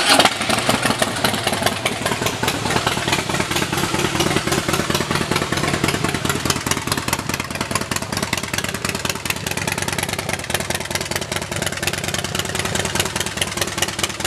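Harley-Davidson Softail Slim S's Screamin' Eagle 110 cubic inch V-twin, just started, idling steadily through a Vance & Hines aftermarket exhaust. It is loudest in the first moment as it catches, then settles to an even idle.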